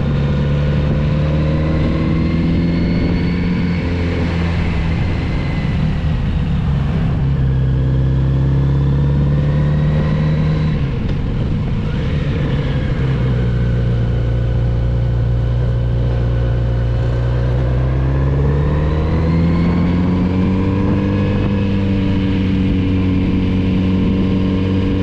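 Kawasaki Z900RS inline-four engine pulling through the bends. The revs hold, dip about four and eleven seconds in, and climb again from about eighteen seconds.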